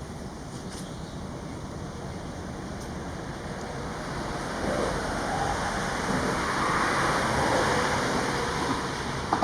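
Road traffic noise: a steady rush that swells as a vehicle passes, loudest a little past halfway, then eases.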